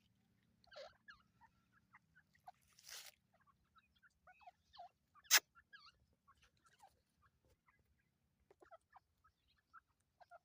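A family of francolins (teetar) giving soft, scattered chirps and squeaky contact calls, with one sharp click about five seconds in.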